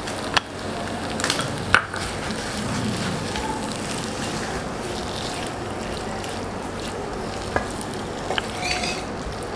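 Pasta frying with a steady sizzle in a non-stick pan as a silicone spatula stirs it, with a few short clicks of the spatula against the pan.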